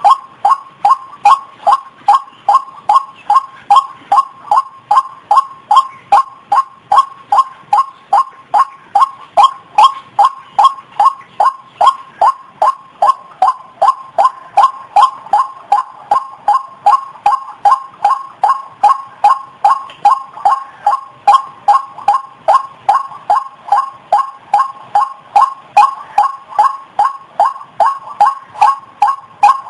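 White-breasted waterhen (ruak-ruak) lure call: a loud, evenly repeated note, about two and a half a second, going on without a break.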